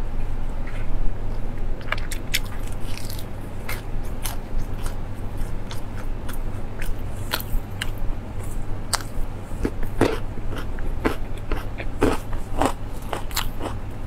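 Close-miked chewing and biting of crispy fried food, with many sharp, irregular crunches and wet mouth sounds.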